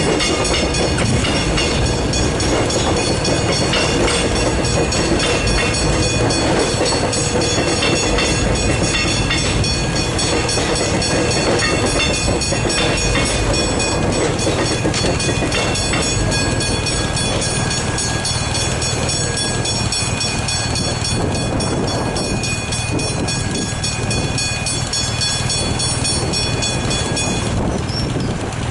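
A train passing over a level crossing with wheels clattering over the rails, while the crossing bells ring as a dense set of steady high tones that stop about a second before the end.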